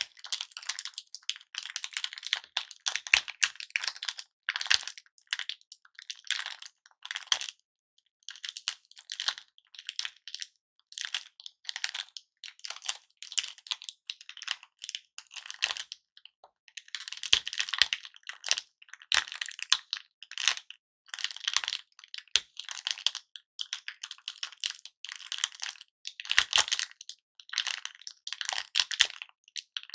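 Hard-candy lollipops being cracked and crunched: a dense, irregular run of crisp clicks and crackles, with a few sharper knocks and a couple of brief pauses.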